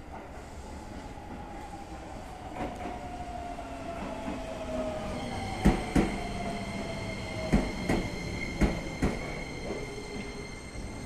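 Keisei electric commuter train pulling into the platform and braking. Its motor whine falls steadily in pitch, a high steady squeal sets in about halfway, and pairs of sharp knocks come as the wheels cross rail joints.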